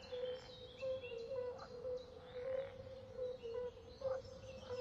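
Birds calling: short notes repeated about twice a second, with faint higher chirps.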